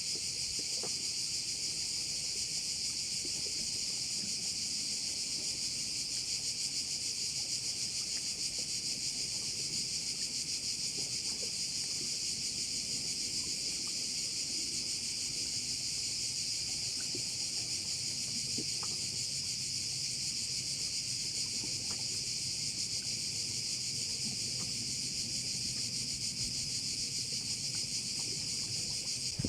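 Dense chorus of cicadas shrilling in a steady, unbroken high buzz.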